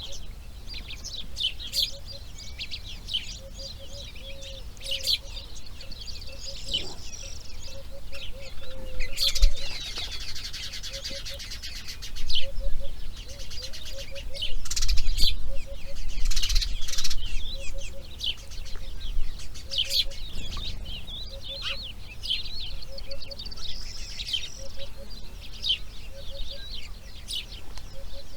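Wild birds chirping and calling in a dawn-chorus-like mix, with a faint low short call repeating about once a second in the background and a dense buzzing rattle lasting a couple of seconds about a third of the way in.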